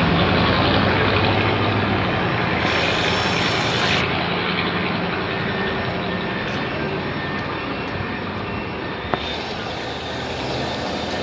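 Diesel engine of a Scania K-360 coach running, a steady engine drone with road noise that grows gradually quieter through most of the clip. A single sharp click comes about nine seconds in.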